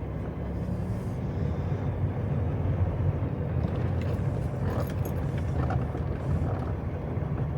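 Semi truck's diesel engine running steadily at low speed, a deep steady drone as the rig creeps along.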